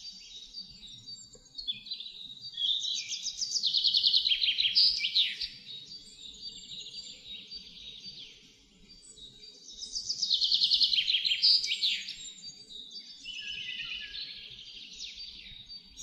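A songbird singing long, twittering phrases of rapid trills and sweeping notes, loudest in two spells about three and ten seconds in and weaker near the end, over faint low background music.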